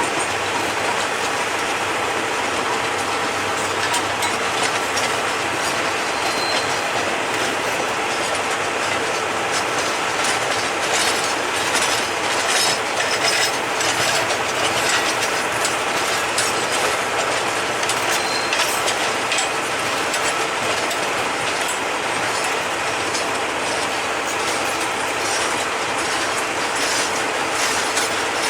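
Freight train's cars rolling past: steady wheel and rail noise with rattling clicks over the joints, thickest midway.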